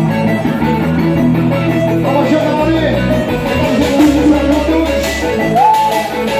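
Instrumental passage of band music without vocals, led by guitar over long held bass notes, with a bending lead note about five and a half seconds in.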